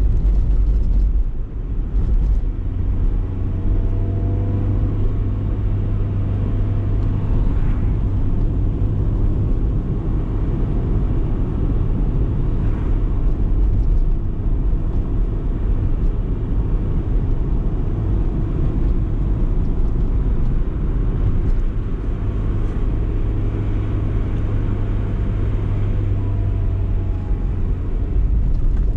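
BMW E30 318is four-cylinder engine and road noise while driving, a steady low drone with the engine note rising at times as the car accelerates.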